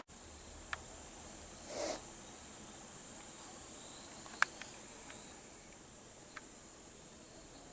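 A steady, high-pitched insect trill, with a few sharp clicks and a brief rustle about two seconds in.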